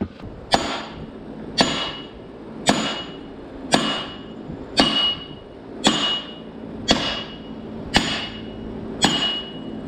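Hammer striking steel, nine evenly spaced blows about a second apart, each with a short metallic ring: driving a stuck part out of a pivot.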